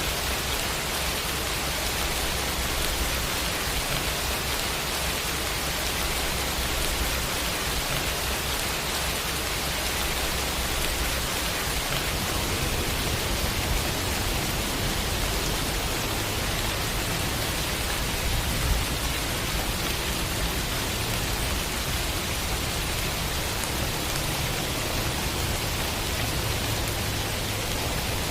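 Steady rain sound effect: an even hiss of rainfall with no distinct drops or thunder standing out.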